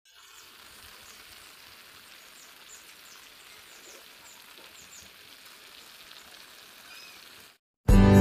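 Mushrooms with chili and garlic sizzling in oil in a wok: a low, steady frying hiss with scattered small pops. It cuts off shortly before the end, and acoustic guitar music starts.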